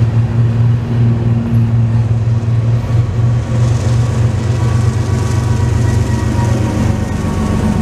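Rear pusher locomotives of a long manifest freight train, GE ES40DC diesels, passing close with a steady low engine drone over the rumble of wheels on rail.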